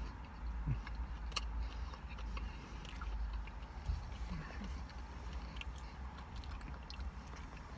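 A person chewing a mouthful of slider burger, with scattered small mouth clicks, over a steady low rumble.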